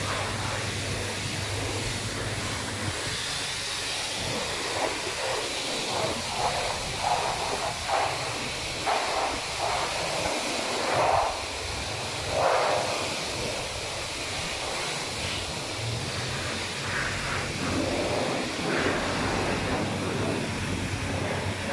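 Water spraying onto a car's body and windows during a car wash, heard as a steady hiss with louder surges in the middle.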